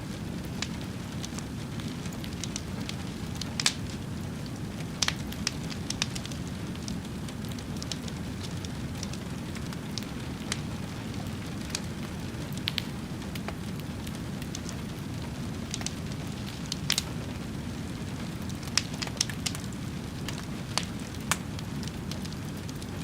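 Wood fire burning with a steady low rumble and irregular sharp crackles and pops, a few each second.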